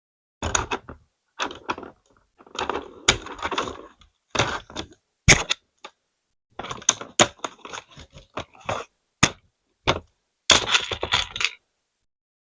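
Plastic LEGO pieces clattering and knocking together in irregular bursts of sharp clicks and rattles, with the loudest snap about five seconds in.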